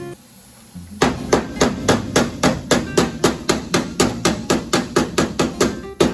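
Hammer striking sheet metal in steady, evenly spaced blows, roughly four a second, starting about a second in, over quiet background music.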